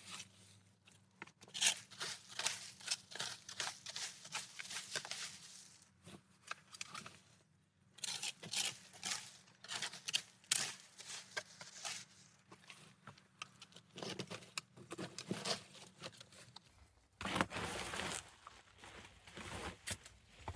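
Leaves being cleared from a paved path by hand tool: repeated scraping and rustling strokes, with a couple of brief pauses.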